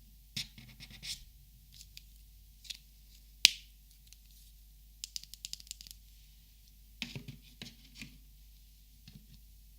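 Copic markers being handled and sorted: plastic caps and barrels clicking and tapping, with one sharp, loud click about three and a half seconds in and a quick run of light taps around five seconds in.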